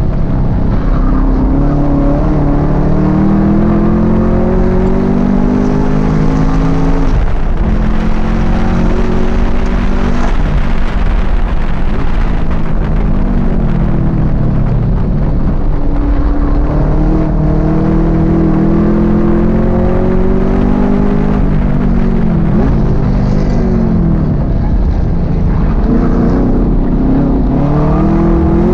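Race-prepared muscle car's engine at full throttle, heard from inside the cabin. It climbs in pitch through each gear and drops back at the shifts, with a spell of braking and quick blipped downshifts about three-quarters through.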